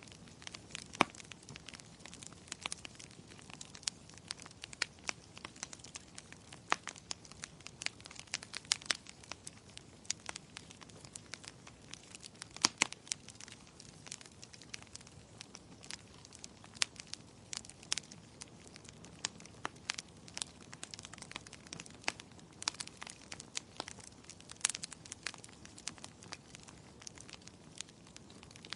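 Wood fire in a fireplace crackling, with frequent irregular sharp pops over a soft steady hiss of the flames.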